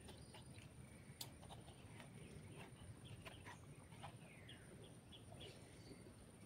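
Near-silent outdoor ambience with faint, scattered bird chirps, including one falling whistle about four and a half seconds in.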